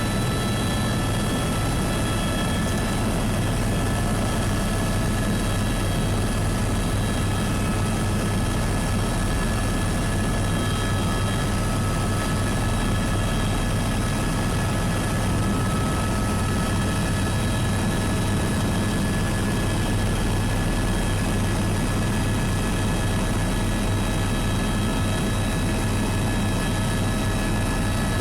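Tour helicopter running steadily, heard from inside the cabin: a constant low rotor drone with a thin, steady high whine from the turbine.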